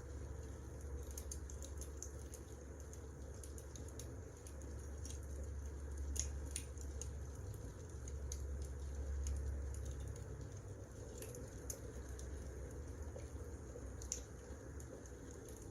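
Wood fire burning: irregular sharp crackles and pops, a few louder snaps among them, over a steady low rumble.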